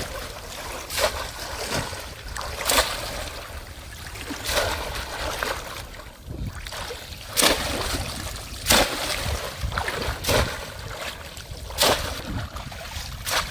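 Water splashing in shallow water: about eight short, sudden splashes, one every one to three seconds, over a steady rushing hiss.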